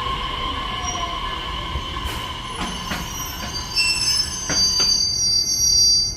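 Train wheels squealing against the rail, with a few sharp clicks as wheels pass over rail joints. About four seconds in, the squeal jumps to a higher, louder pitch, then cuts off suddenly.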